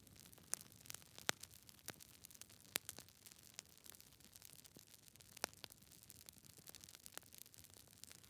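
Faint crackling of logs burning in a fireplace: irregular sharp pops and snaps over a soft hiss, a few pops louder than the rest.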